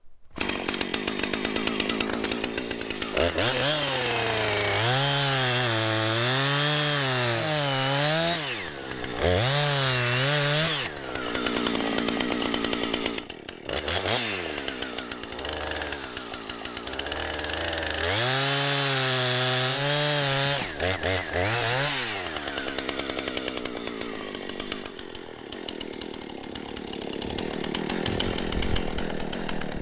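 Husqvarna 455 Rancher two-stroke chainsaw bucking logs into sections. The engine pitch repeatedly rises and sags as the throttle is worked and the chain loads up in the cut, with several short drops between cuts.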